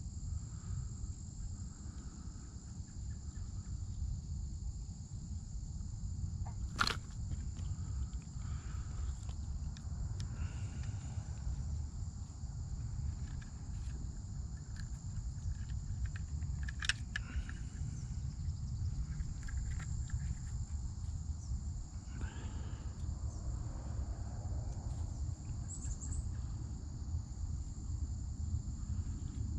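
Outdoor ambience of steady insect chirring, likely crickets, over a constant low rumble. Two sharp clicks stand out, about seven seconds in and again near seventeen seconds.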